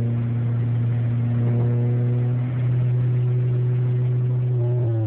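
Honda Prelude's four-cylinder engine running steadily while cruising at highway speed, heard from inside the cabin. Its pitch starts to dip near the end.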